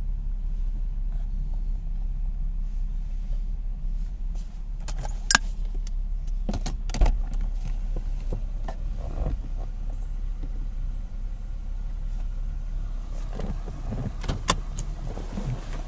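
Lexus GS F-Sport's V6 engine idling steadily in Park, heard from inside the cabin. A few sharp clicks and knocks stand out over it, the loudest about seven seconds in and another pair near the end as the driver's door stands open.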